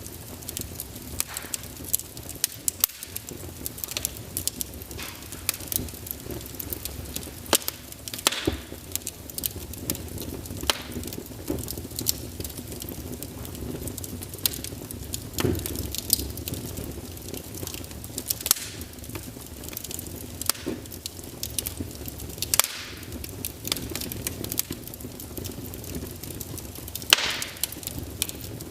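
Wood burning in a fireplace: irregular crackles and snaps over a steady low rumble of the flames, with a few louder pops.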